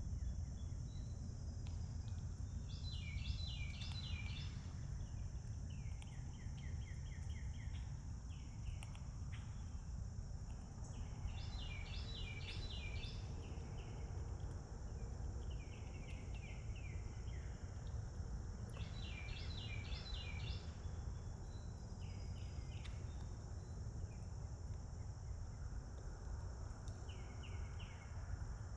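A songbird singing short phrases of five or six quick repeated notes, one every three to five seconds, over a steady high insect drone and a low steady rumble.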